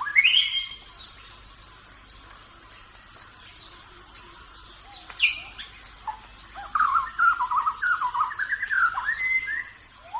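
Rainforest birds calling: a rising call at the start, a sharp downward call about halfway, then a warbling run of notes in the last few seconds, over a steady high-pitched insect hum.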